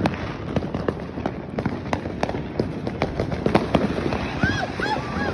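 Fireworks and firecrackers going off: a dense, irregular run of sharp pops and bangs, several a second, over a continuous crackle. Near the end, a quick series of short high chirps.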